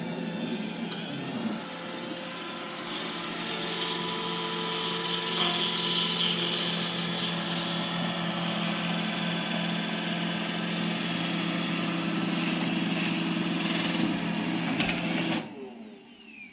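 iRobot Roomba E6 robot vacuum running, with its suction motor and brushes humming steadily while it heads for its charging dock. The sound grows louder about three seconds in, then cuts off suddenly near the end as the robot shuts down.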